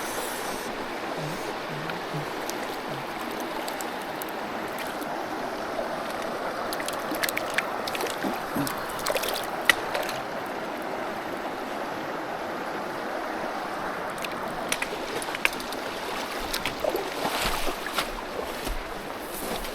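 Mountain stream water rushing steadily over rocks, with scattered sharp clicks and splashes in the middle and near the end.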